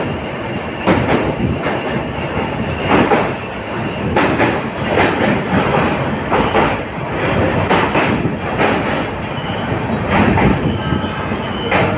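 Passenger express train coach running at speed: a loud steady rumble with repeated clacks of the wheels over rail joints.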